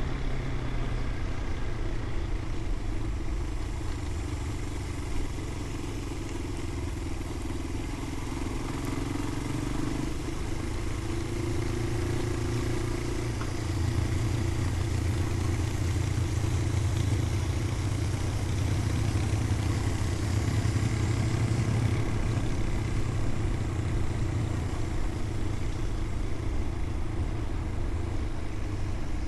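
Motorcycle engine running at a steady pace while riding, a steady low hum over road and wind noise; it gets a little louder about halfway through.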